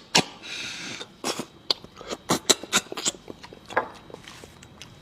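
Close-miked eating sounds: irregular wet mouth clicks and smacks of chewing, with a short breathy hiss about half a second in.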